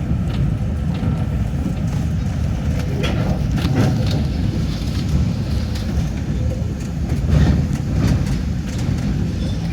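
A train running on track, with a steady low rumble and scattered clicks and knocks from the wheels and running gear.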